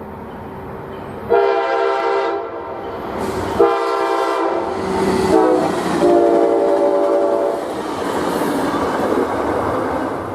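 Locomotive air horn sounding two long blasts, a short one and a long one, the standard signal for a grade crossing, followed by the loud rumble of the train passing close by.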